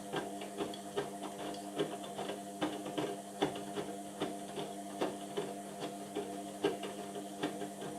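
Indesit washing machine running a wash cycle: the drum motor hums steadily while irregular clicks and taps sound several times a second as the drum turns.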